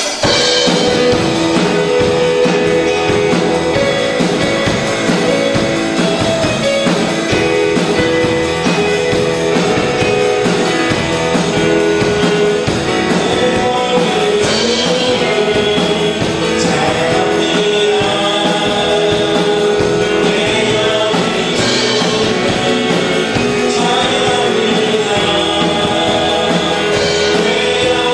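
Live worship band with electric guitar playing a praise song, with voices singing along at a steady loud level.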